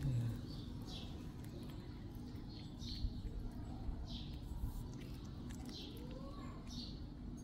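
Small birds chirping in short, high, falling notes, repeated about once a second, over a faint steady low hum.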